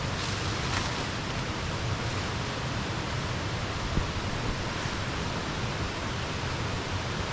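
Waterfall rushing steadily, an even hiss of falling water, with one faint knock about four seconds in.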